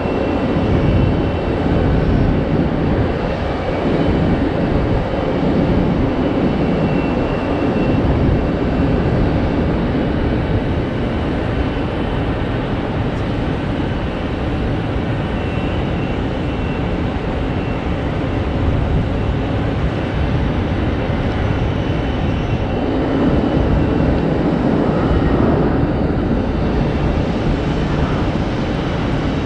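Jet airliner engines running, a loud steady rumble with a faint high whine above it.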